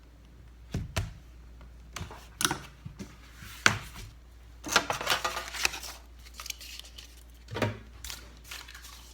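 Laptop parts and small tools handled on a workbench during a repair: a string of sharp clicks and knocks, with a short burst of rustling and scraping about five seconds in.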